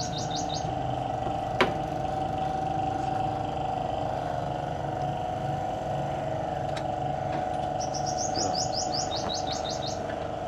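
A small bird giving rapid trills of quick, high chirps, once at the start and again near the end. Underneath runs a steady mechanical hum with a single note, and there is one knock early on.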